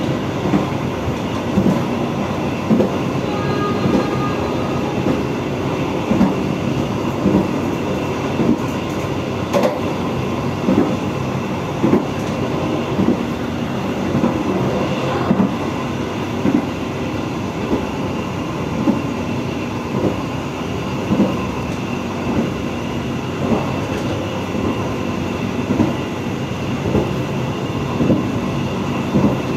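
Passenger train running along the track, heard from the rear of its last carriage: a steady rumble with regular clacks about once a second as the wheels pass over the rail joints.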